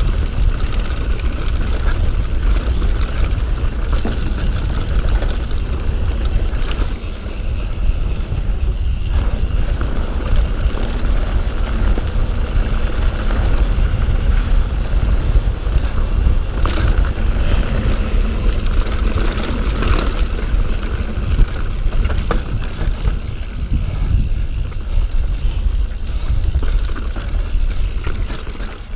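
Wind buffeting the microphone and a mountain bike's tyres rolling over a rough downhill trail, with scattered rattles and knocks from the bike.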